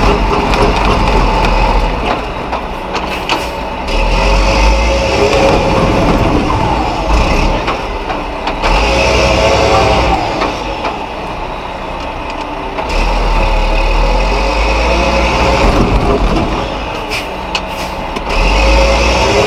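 Mack RB concrete mixer truck's diesel engine working hard in soft sand, heard from inside the cab: the engine note surges up and falls back again and again, with a deep rumble and some knocks and rattles, as the loaded truck strains to get unstuck.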